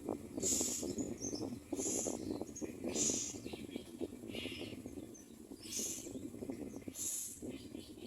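Common mynas at the nest giving harsh, hissy calls, about one a second, over a steady low rustling.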